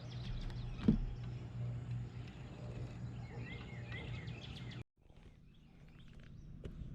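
Outdoor ambience with a steady low hum and a single knock about a second in. A bird calls a quick run of short repeated chirps around the middle. The sound drops out abruptly about five seconds in and comes back quieter.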